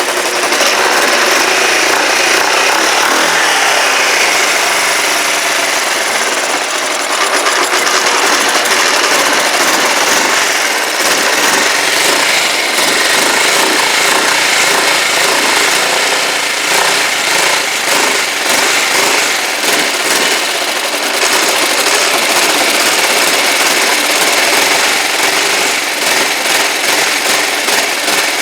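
Rebuilt Kawasaki GPZ500S liquid-cooled parallel-twin engine running steadily in the frame with a fast mechanical clatter. It is running on a small amount of fuel and has not reached operating temperature.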